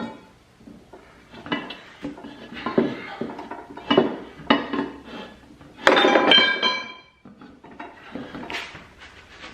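Metal tools knocking and clanking against a steel wheel rim and a manual tire changer while a garden tractor tire is levered onto the rim: a series of separate knocks, the loudest a ringing clang about six seconds in.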